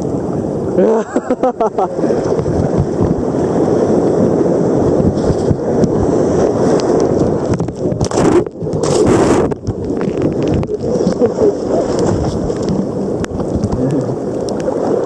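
Wind buffeting the microphone over the steady rumble of big ocean surf breaking, with a short voice about a second in.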